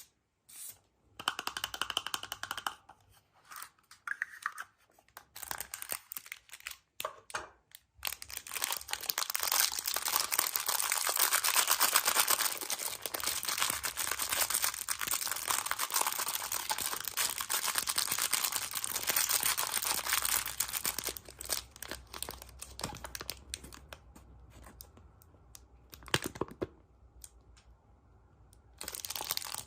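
Crinkly wrapper of a surprise egg being torn open and crumpled by hand: scattered crackles at first, then dense continuous crinkling for over ten seconds before it quietens to light rustling.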